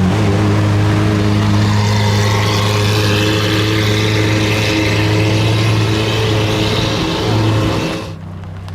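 Supercar engine running loud at a steady pitch, with a brief swell just before it cuts off suddenly near the end, leaving a quieter, lower engine hum.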